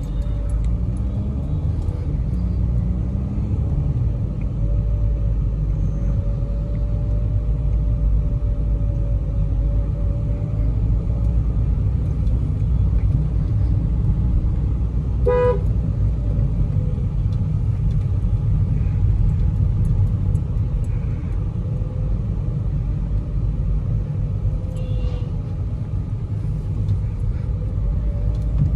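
Steady low road and engine rumble inside a closed car cabin while driving, with one short car horn toot about halfway through.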